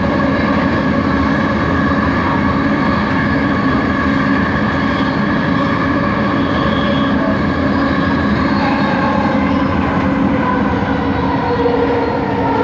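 Bombardier Innovia ART 200 metro train running, heard from on board: a steady whine of several tones from its linear induction motor drive over the rumble of the running gear. Some of the tones slide lower near the end. This is the unusual motor noise the train set is noted for.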